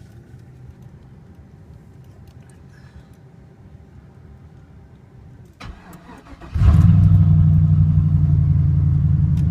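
Cammed Chevrolet Silverado LS-series V8 cold-started after sitting in sub-zero weather: a few seconds of faint steady hum, then a brief crank about six seconds in, and the engine catches at once and runs loud and steady.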